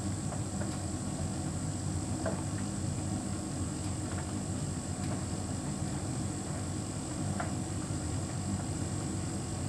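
Hotpoint heat pump tumble dryer running: a steady low hum from the drum and compressor, with a faint high whine. A few light clicks come through, about two seconds in and again near the end.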